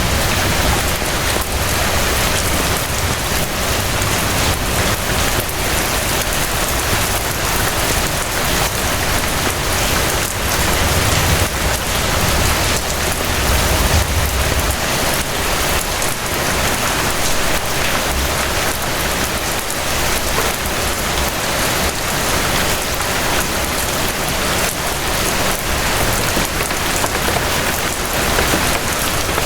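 Steady rain falling: a dense, even hiss of many drops, with a low rumble swelling now and then, strongest a little before the middle.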